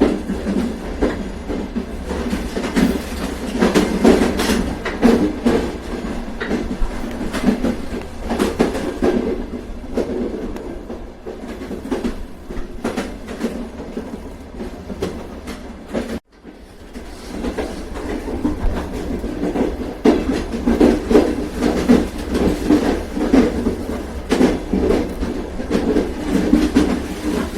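Train running along the track, with a steady rumble and the wheels clacking irregularly over rail joints. The sound cuts out briefly about 16 seconds in and then comes back.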